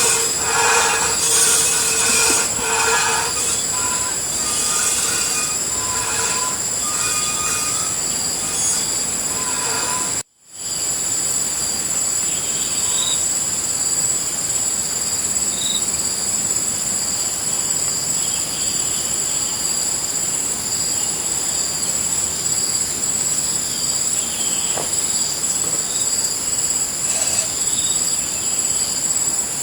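Steady high-pitched insect chorus ringing without a break, with short calls over it in the first ten seconds. The sound drops out completely for a moment about ten seconds in.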